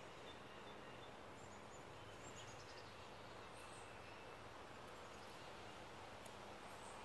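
Near silence: faint outdoor ambience with distant bird chirps, including a quick run of short high notes about a second and a half in and a few scattered chirps after.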